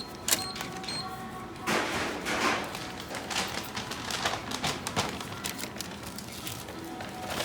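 Semi-self checkout payment machine beeping a few times. A loud clatter follows about two seconds in, then a run of sharp clicks and rattles for a few seconds.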